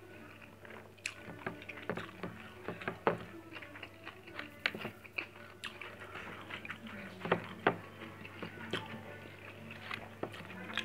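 A person chewing and eating grilled fish and rice by hand: irregular wet clicks and smacks from the mouth and fingers, a few sharper ones now and then, over a steady low hum.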